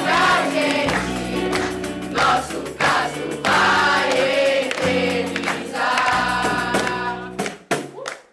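Choir singing a song with instrumental accompaniment, ending near the close.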